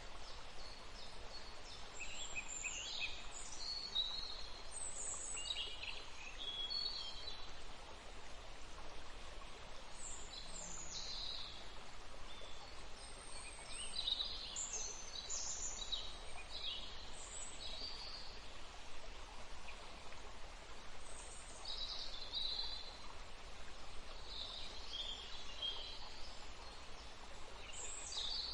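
Birds chirping, with short high calls scattered throughout, over a steady hiss.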